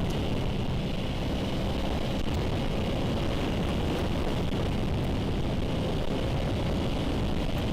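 Motorcycle riding at a steady speed, heard from a helmet-mounted camera: a steady rush of wind and road noise with the engine's faint steady tone underneath.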